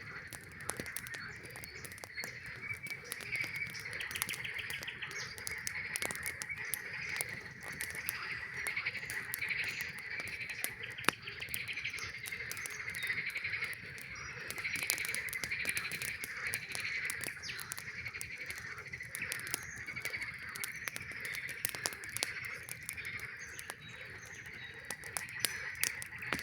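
A dense chorus of frogs calling steadily, with frequent sharp crackles and pops from a campfire.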